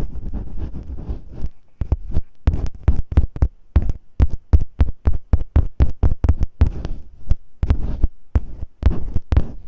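Masking tape rubbed and scratched against a microphone, ear-cleaning-style ASMR: a fast run of short, close, bassy scraping strokes, about five a second.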